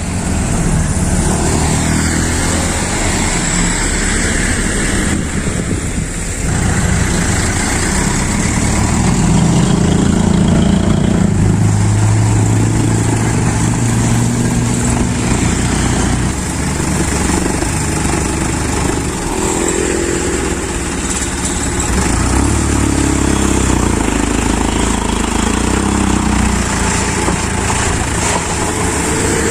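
Isuzu Elf dump truck's diesel engine running steadily, its pitch rising and falling a little as the revs change.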